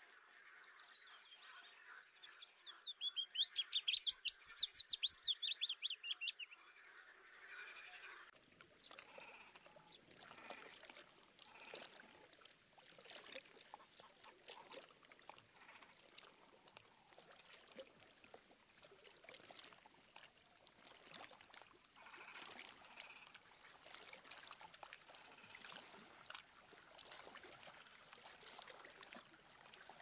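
A bird calls a rapid series of high, sharp notes, about four or five a second, loudest a few seconds in and stopping after about six seconds. After that there is only faint crackly ambience of water at the shore.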